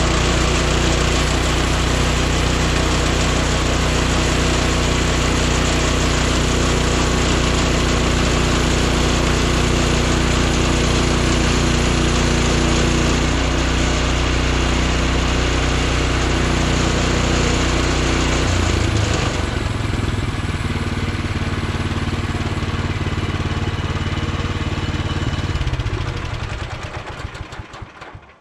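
Small gasoline engine of a Woodland Mills HM126 portable band sawmill running steadily at high throttle. About two-thirds of the way through its note drops to a lower, rougher run, and near the end the engine is shut off and winds down to a stop.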